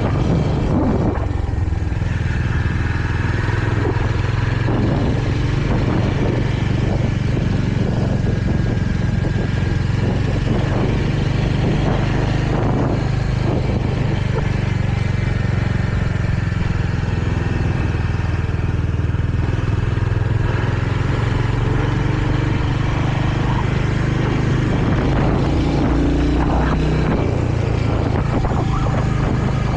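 Royal Enfield Hunter 350's single-cylinder engine running steadily while riding along.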